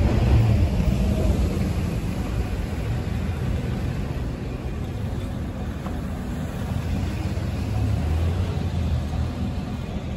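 Strong storm wind buffeting the microphone, a low rumble that swells and eases.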